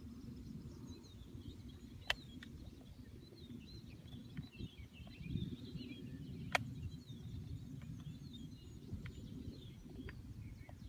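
Small birds chirping over a steady low outdoor rumble, with two sharp clicks, about two seconds and six and a half seconds in.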